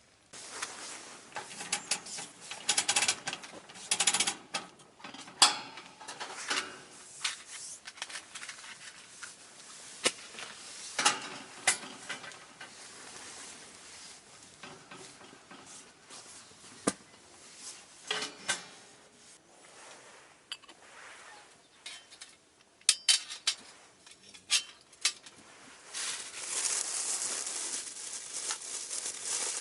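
Metal camp cookware and utensils being handled: irregular clinks, taps and clatters, with a steadier rustle near the end.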